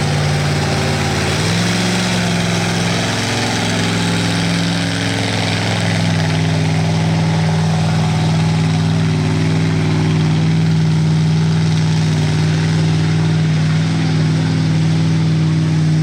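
A tractor-tire mud truck's engine running hard at a steady high speed, with a step up in pitch about a second and a half in, over a loud rushing hiss.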